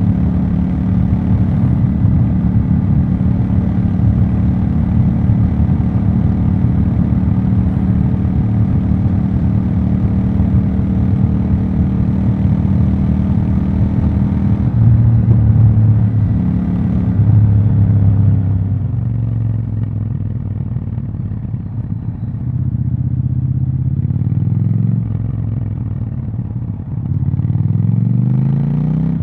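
Triumph Scrambler 1200 XE's 1200 cc parallel-twin engine and exhaust running loud at a steady engine speed for about half the time. The note then drops in several steps, and rises again near the end.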